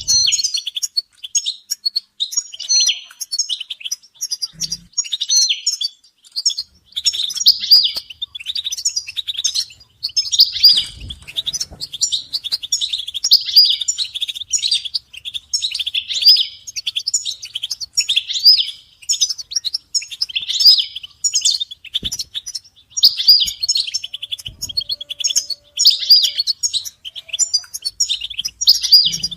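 European goldfinches chattering and twittering together in a dense run of quick calls with short breaks. These are excited group calls of the kind used to stir a male goldfinch into song.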